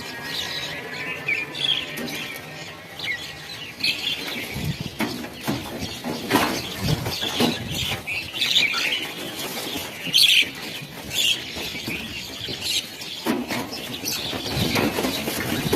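A flock of small birds calling with many short, overlapping chirps, mixed with the flutter of wingbeats.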